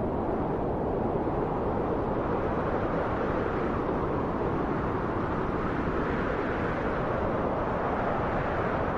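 Steady wind: a continuous even rushing with most of its weight low and middling, swelling slightly in the upper part around the middle.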